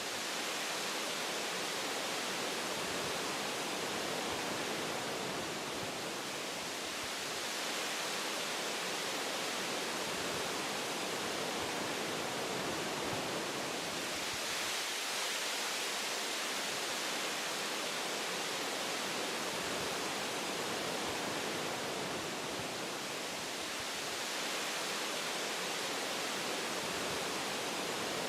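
Wind blowing through forest tree branches: a steady rushing hiss that swells and eases in slow gusts every several seconds.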